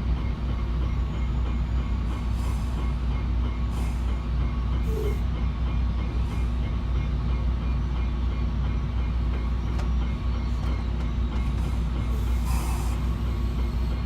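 Train running at a station: a steady low rumble with a faint even rhythm over it, and a few brief sharp sounds.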